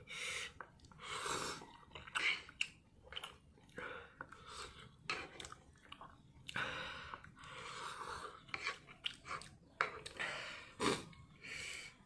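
A person chewing mouthfuls of Samyang Buldak fried noodles close to the microphone, with irregular wet chewing sounds and short mouth clicks.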